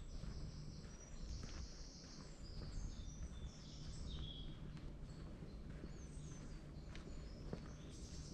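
Woodland birds singing: many short, high-pitched song phrases and chirps, over a low, steady rumble of wind on the microphone, with a few faint footsteps on the forest path.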